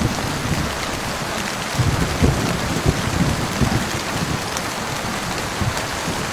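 Heavy rain falling steadily in a thunderstorm, with low rumbling thunder that swells about two to three seconds in.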